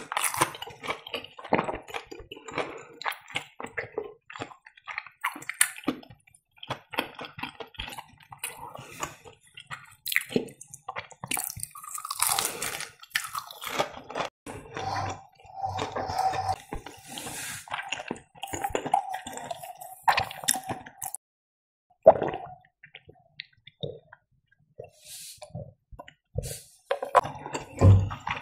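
Close-miked chewing of breaded fried cheese with the mouth closed: irregular wet clicks, smacks and squishes of the soft, stretchy cheese, with a few louder single clicks.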